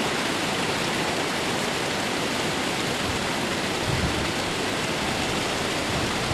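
Steady hiss of heavy hurricane rain and running water.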